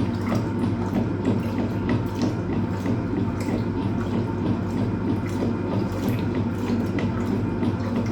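Hoover Automatic 820 washing machine running a full load: a steady motor hum with water sloshing and splashing inside the tub.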